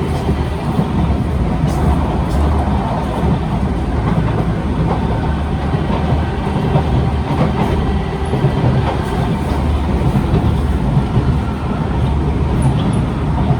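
Cabin noise of a Kawasaki C151 electric multiple-unit train running between stations: a steady low rumble of wheels on track with scattered light clicks. The uploader describes this car as riding badly on poor suspension, shaking hard.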